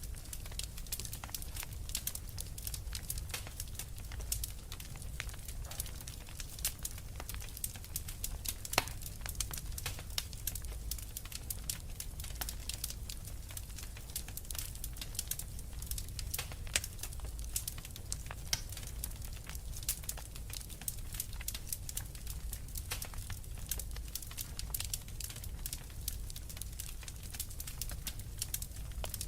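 Wood fire crackling with dense, irregular small pops and snaps, over a steady low rumble of blizzard wind.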